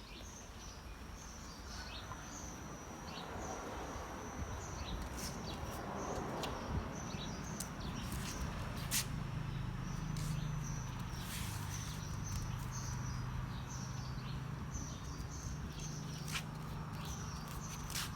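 Outdoor ambience of small birds chirping repeatedly in short high calls, with a few sharp clicks and a low steady hum that comes up about eight seconds in.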